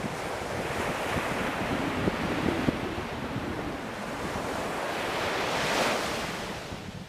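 Ocean waves breaking on a shore, a wash of surf that swells to a peak late on and then eases off.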